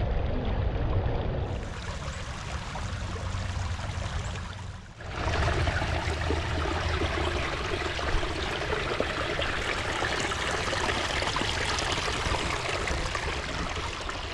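Creek water running and trickling steadily, with a low rumble underneath; the sound dips briefly about five seconds in and then carries on.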